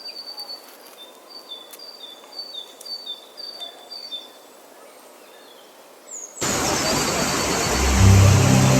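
A bird calling over quiet outdoor ambience: short whistled notes alternating between two high pitches, about two a second. About six seconds in, loud music cuts in suddenly, a full wash of sound with a bass line joining shortly after.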